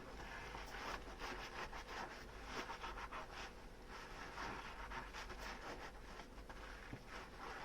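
Dishes being scrubbed with a soapy sponge: soft, irregular rubbing strokes with small clicks of tableware.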